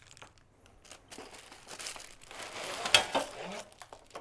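Plastic packaging crinkling and rustling as the bracket kit is handled, with a sharp knock about three seconds in.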